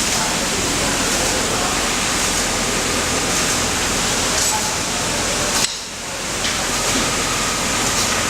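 Steady rushing noise of an automatic pattern sewing machine at work, dropping away briefly just under six seconds in.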